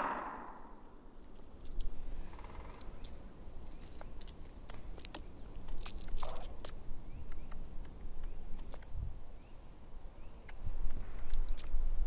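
Winter forest ambience: a very high, thin, warbling bird song heard twice, over scattered small clicks and crackles.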